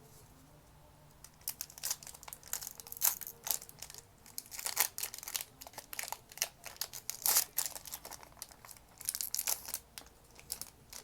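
Foil wrapper of a Magic: The Gathering collector booster pack crinkling and tearing as it is opened, in irregular crackles starting about a second in.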